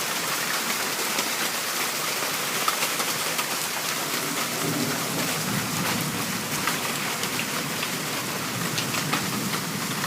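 Heavy rain falling steadily, a dense hiss with many individual drops striking close by. A lower rush joins about halfway through.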